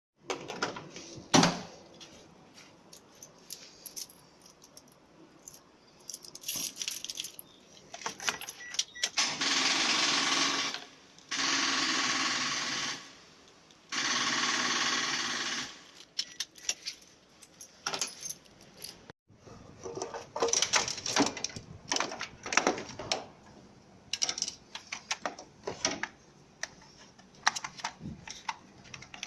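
Clicking and clattering of hard objects being handled, with a sharp knock near the start. In the middle come three steady, noisy bursts of about two seconds each, close together.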